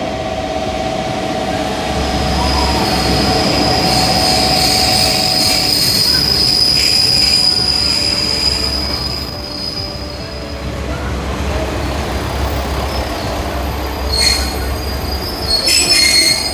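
Train running with its wheels squealing on the rails over a low rumble. There is a long, steady high screech through the middle and sharper, shorter squeals near the end.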